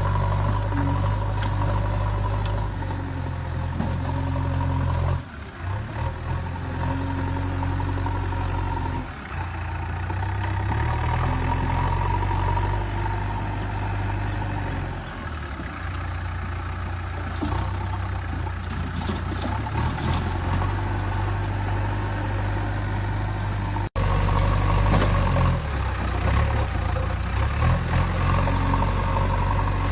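JCB 3DX backhoe loader's diesel engine running steadily, its level dipping briefly now and then as the load changes. It drops out for an instant about four-fifths of the way through and comes back slightly louder.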